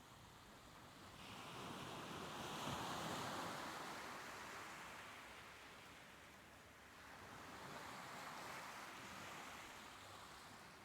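Soft ocean waves washing ashore: one wave swells and breaks about three seconds in and recedes, and a smaller one follows near the end.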